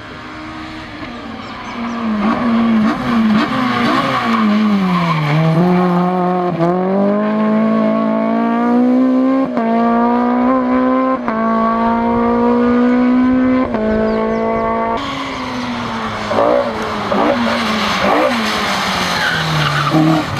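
Rally car engine at full effort, its pitch dropping and climbing again with quick gear changes, then holding high and revving hard for several seconds before falling away near the end.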